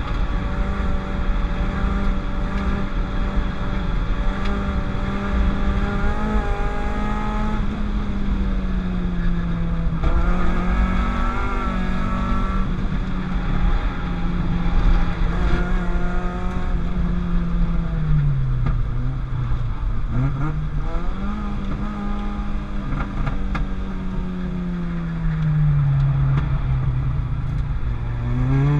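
Peugeot 205 GTI's transplanted 206 RC four-cylinder engine running hard on a track lap, its pitch holding high and then falling and climbing again as it is lifted, shifted and driven back up between corners, with two deeper drops in revs in the second half.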